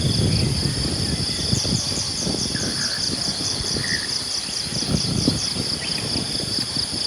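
Outdoor morning nature ambience: a steady high-pitched insect drone with rapid repeated chirping over it, a couple of short bird calls, and a low rumble underneath.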